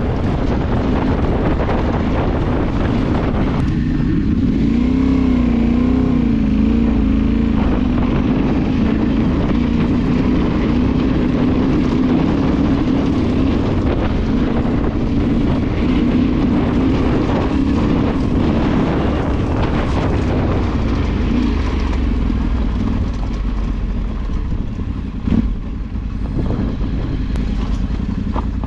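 Off-road motorcycle engine running under throttle while riding. The revs rise and fall repeatedly about four to eight seconds in, then hold steadier, over rumble from the ride.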